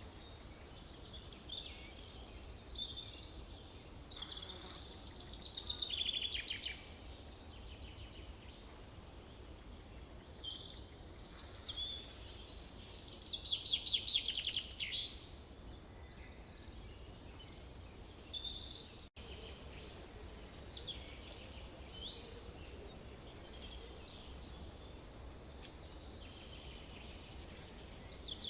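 Several birds singing and chirping over a steady low background hum, with two louder rapid trilled songs, about five seconds in and again around thirteen to fifteen seconds.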